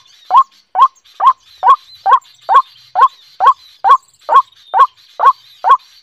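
A bird call repeated steadily about twice a second, each call a short note rising in pitch, with faint high chirping behind it.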